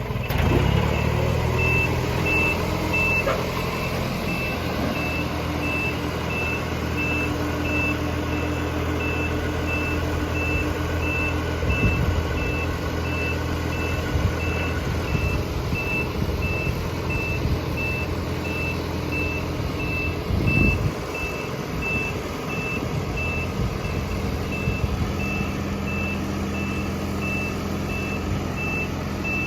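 Flat-top safety loader truck with its engine running and its warning beeper sounding steadily, about one and a half short high beeps a second from about two seconds in.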